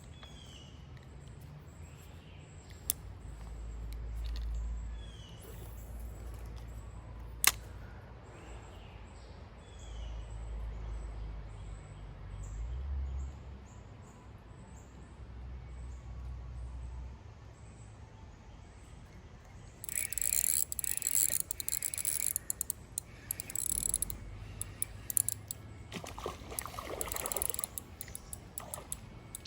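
Small birds chirping over a low rumble, with two sharp clicks in the first eight seconds. From about twenty seconds in comes a stretch of crackling, rustling noise.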